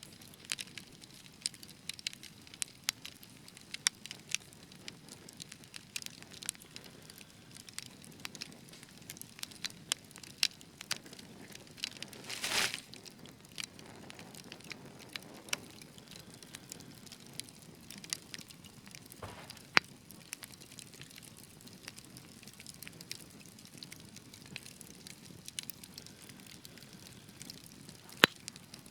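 Wood fire crackling: irregular sharp pops and snaps over a soft steady hiss, with a brief burst of louder crackling about halfway through.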